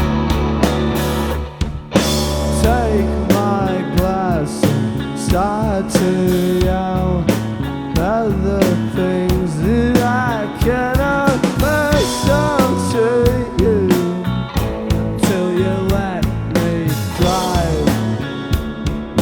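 Live rock band playing: drum kit, bass and guitars, with a bending melodic line on top. There is a brief drop just before two seconds in, then the full band comes back in with a cymbal crash.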